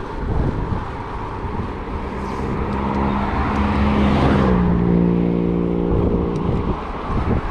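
A motor vehicle passing close by: its engine tone grows louder, drops in pitch as it goes past about four and a half seconds in, and fades away, over the steady buffeting of wind on the microphone.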